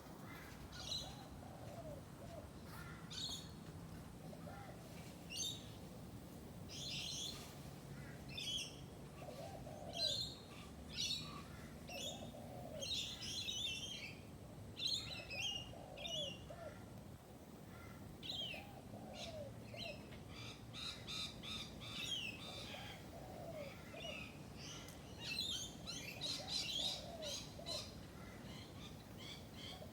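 Outdoor birdsong: several birds chirping and trilling, with a lower call that rises and falls, repeated every couple of seconds beneath the higher chirps.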